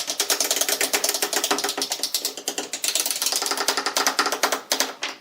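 Rapid mechanical clicking, about a dozen clicks a second, with a brief break near the end.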